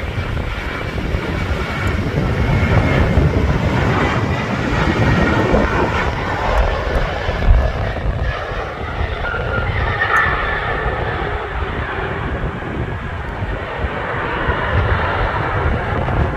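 Jet airliner engines running, a steady loud roar with gusty low rumble and a brief higher whine about ten seconds in.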